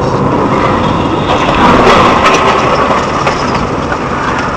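Loud, steady vehicle and road noise picked up by a dashcam's microphone, with a few faint knocks or crackles and a slight swell in the middle.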